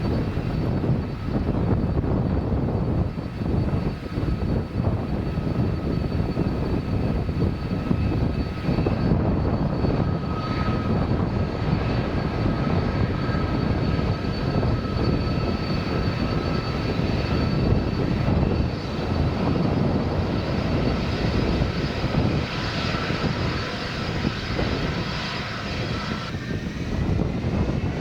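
Airbus A330 jet engines running with a steady rumble and whine. Near the end the whine rises in pitch as the engines spool up.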